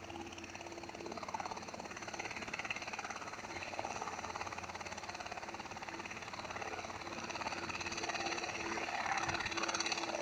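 Helicopter flying, its rotor beating in fast, even pulses over a steady tone, growing louder near the end.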